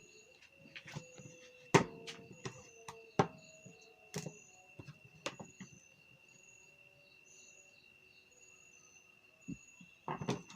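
Scattered sharp clicks and knocks of plastic kettle-base parts and tools being handled, the loudest a couple of seconds in and a cluster near the end. Under them a steady high cricket chirring.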